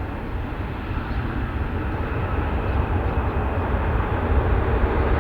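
Jet airliner engines rumbling, growing steadily louder.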